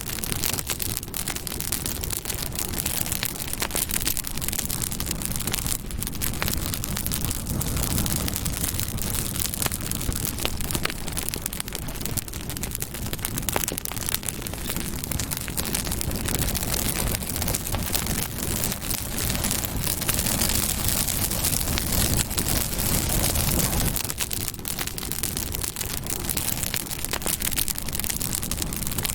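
Campfire burning, with dense, continuous crackling over a steady hiss.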